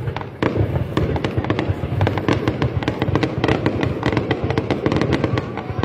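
Ground-launched fireworks firing in a fast, dense string of bangs and crackles, many a second, with no break.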